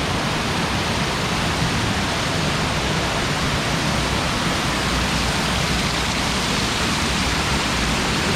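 Steady, even rush of falling water from a waterfall, with no breaks.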